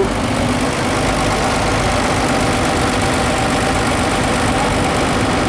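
Tractor engine running steadily at low revs, a constant rumble with a faint steady hum.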